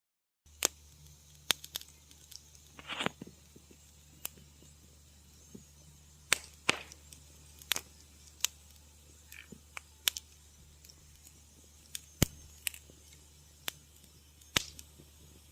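Wood fire crackling in a fireplace: irregular sharp pops and snaps, one or two a second, a few with a short hiss, over a low steady hum. The sound cuts out for about half a second at the very start.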